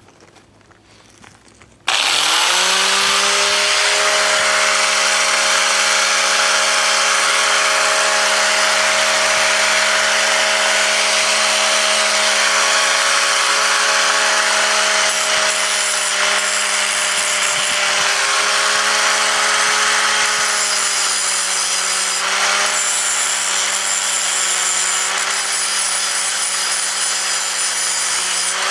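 Angle grinder starting about two seconds in, its pitch rising as it spins up, then running steadily while grinding the old bolt ends off the steel harrow sections, with a dense hiss of metal grinding; the motor pitch dips slightly under load near the end.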